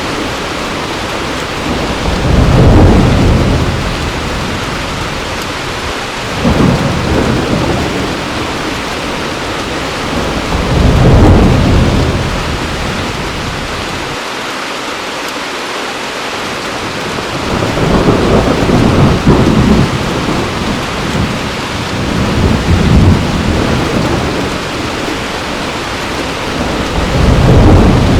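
Heavy rain falling steadily, with thunder rolling and rumbling in repeated deep swells every few seconds over the hiss of the rain.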